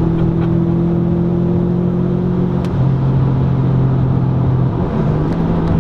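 Stage 2 2013 Subaru WRX's turbocharged flat-four engine and modified exhaust droning from inside the cabin under way, with road noise. Its pitch drops about three seconds in and rises again near the end.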